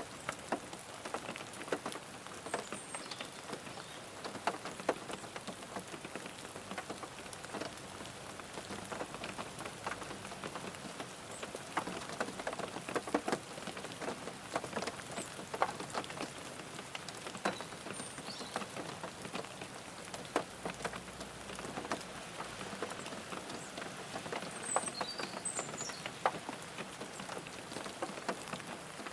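Steady rain falling on a car, many individual drops tapping sharply on the body over a constant hiss of rain. A few faint, short high chirps come through a few times.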